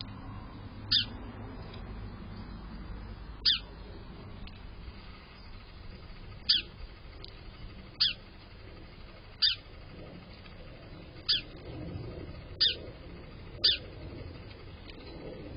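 A bird repeating a short call that slides quickly down in pitch, eight times at uneven gaps of one to three seconds.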